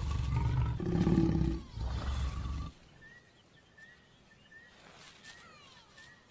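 Lion growling during mating in two loud, deep runs, the second cutting off sharply about two and a half seconds in. Faint bird chirps follow.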